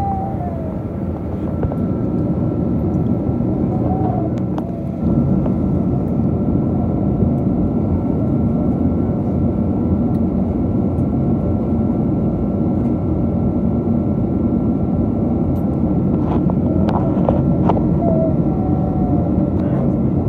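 Cabin noise of a Boeing 777 jet airliner: a loud, steady rush of engine and air noise with a thin steady high tone. The rush steps up sharply about five seconds in and then holds steady.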